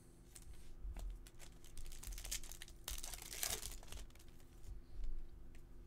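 Foil trading-card pack wrapper crinkling and cards being handled, with small clicks and scrapes and a louder stretch of rustling about three seconds in.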